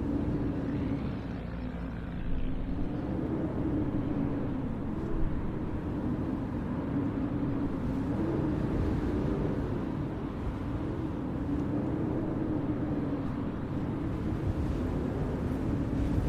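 Blizzard wind blowing steadily, with a deep rumble and a low moaning howl that slowly rises and falls in pitch.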